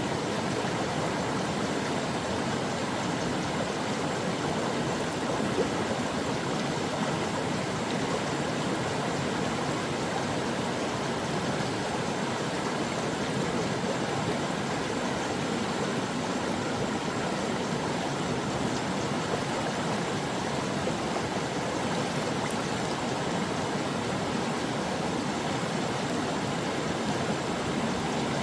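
A brook running over stones, a steady, even rush of flowing water.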